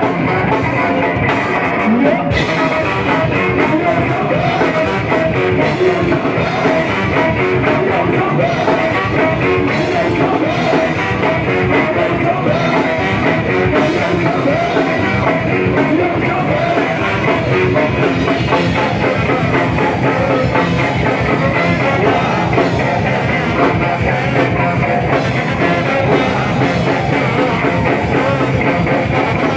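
Ska-punk band playing a song live and loud, with drums, guitar and singing.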